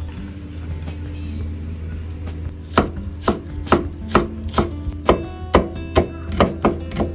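Knife chopping food on a cutting board: a steady run of cuts, about two or three a second, starting about three seconds in, over soft background music.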